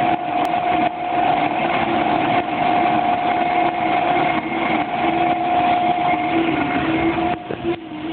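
The No. 3 kangenki (還元機) machine running with an abnormal noise: a steady high whine over a mechanical hum, with a lower tone that wavers in pitch. The whine fades and the level dips briefly near the end.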